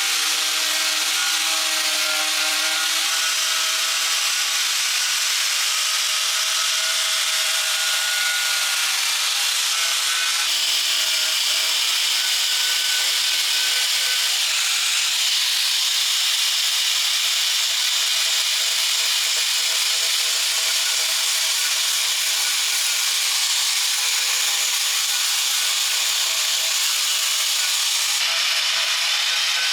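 Handheld power tool running continuously against a surface, a steady high hiss with wavering tones that shift as the load changes.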